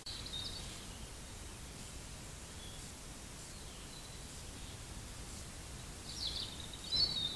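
Quiet woodland ambience through a trail camera's microphone: a steady faint hiss with short high bird chirps just after the start and again, more of them, from about six seconds in.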